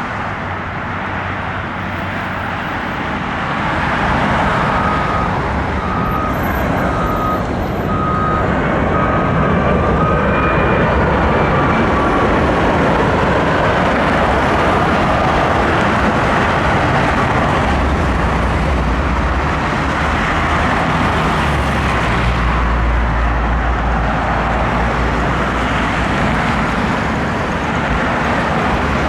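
Boeing 757 jet airliner's engines passing on final approach and landing, a loud steady jet noise with a thin whine in the first half and a deeper rumble in the second half.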